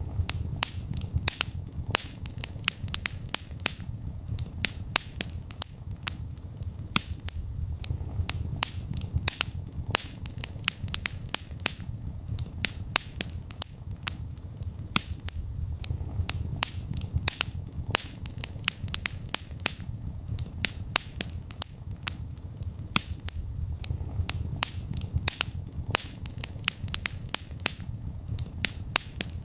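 Wood fire burning in a fireplace, crackling and popping several times a second over a low steady rumble of the flames.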